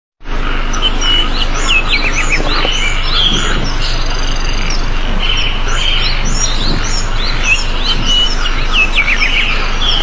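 Several small birds chirping and calling over one another, with quick downward-sweeping notes and short held whistles, over a steady low hum.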